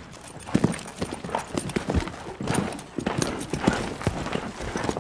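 Hoofbeats of a young stallion moving around a pen with a saddle on his back for the first time: a quick, irregular run of hooves striking the ground.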